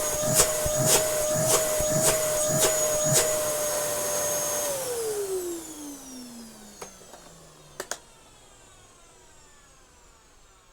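Dyson DC07 upright vacuum cleaner's motor running with a steady high whine, with a sharp knock about twice a second over the first few seconds. About five seconds in it is switched off, and the whine falls in pitch as the motor spins down.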